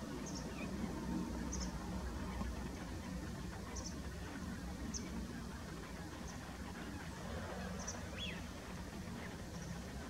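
Faint short, high bird calls repeated at irregular intervals, with one falling whistle about eight seconds in, over a steady low rumble.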